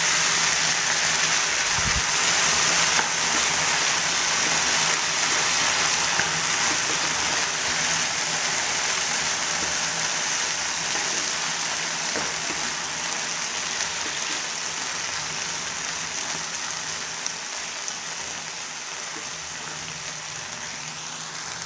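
Boiled potato cubes sizzling in hot groundnut oil in a non-stick frying pan: a steady hiss that slowly fades.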